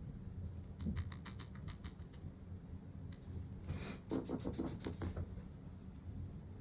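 Light, quick clicks and taps from small tools and parts being handled at a workbench during fine gluing work, in two short clusters: one about a second in, a second, fuller one around four seconds in. A low steady hum runs underneath.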